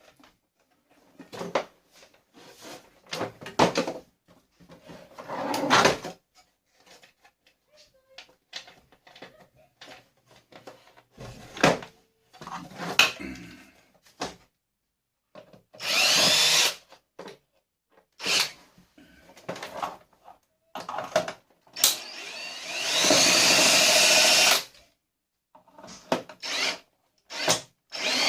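Power drill running in short bursts, about a second near the middle and about two seconds near the end, with its pitch rising and falling. Between the runs come knocks and clatter of parts being handled.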